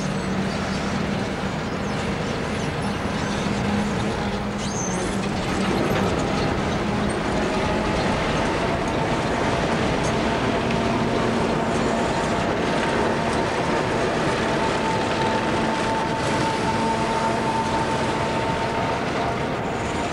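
Train running past on the rails: a steady rumble of wheels with a low hum and a thin, higher steady tone that grows stronger in the second half.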